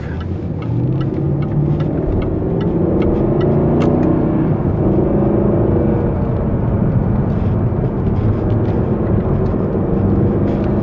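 Jaguar XK's 4.2-litre V8 heard from inside the cabin, accelerating, its note climbing.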